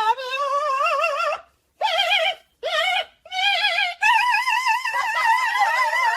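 A high voice singing wordless, drawn-out notes with a heavy, regular vibrato, in four phrases broken by short pauses: a wavering, warbling song.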